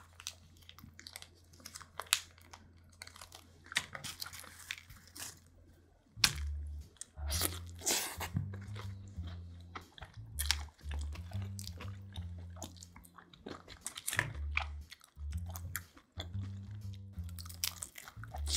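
Close-miked chewing and biting of crunchy thin-crust pizza, with repeated short crunches. Background music with a bass line comes in about six seconds in.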